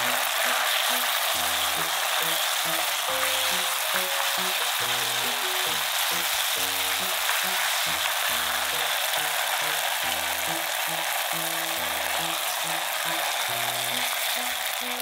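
Radish sizzling steadily in a frying pan, a continuous even hiss. Soft background music with slow low notes plays under it.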